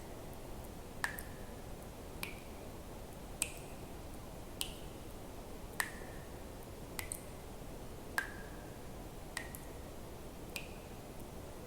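Water drops falling one at a time into water, about one drop every 1.2 seconds, each a sharp plink with a short ring whose pitch shifts a little from drop to drop, over a faint steady hiss.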